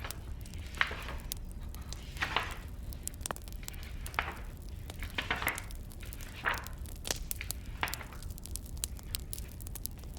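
Burning firewood crackling, with irregular sharp pops. Softer rustling sounds come every second or two over a steady low rumble.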